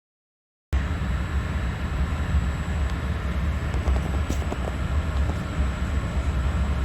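Steady low rumble and hiss of a regional train heard from inside, starting abruptly about a second in, with a faint steady high whine over it.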